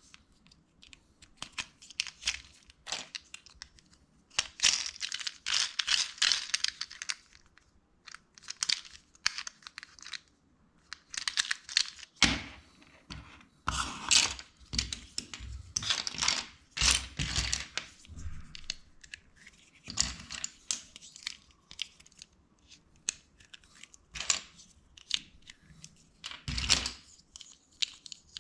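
Plastic LEGO bricks being handled and pressed together: irregular clicking, rattling and rustling in short flurries, with a few duller knocks.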